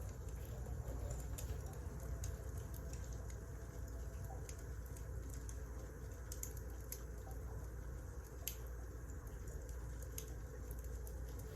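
Wood fire crackling: irregular small pops and snaps over a low steady rumble, with a sharper pop about eight and a half seconds in.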